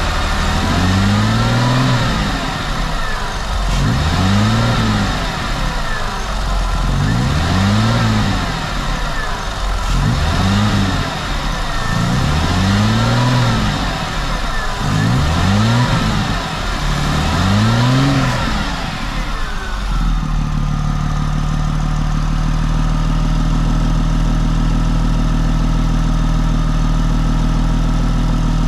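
A 2003 Porsche Boxster's flat-six engine is blipped about seven times in a row, each rev rising and falling over a couple of seconds. About twenty seconds in it drops back and settles into a steady idle.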